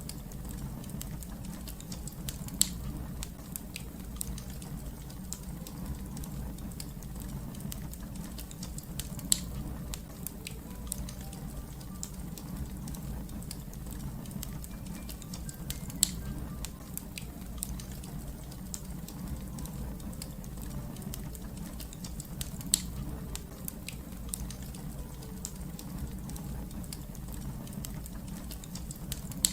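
Wood fire crackling: a steady low rumble under a constant scatter of small ticks, with four louder sharp pops spaced about seven seconds apart.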